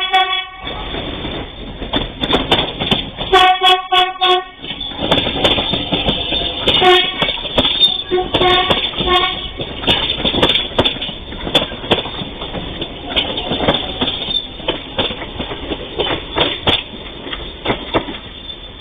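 Electric commuter train sounding its horn as it crosses a level crossing: one blast at the start, a second about three seconds in, then a few shorter toots around seven to nine seconds in. After that the wheels clatter over the rail joints in a long run of clicks and knocks as the cars roll past.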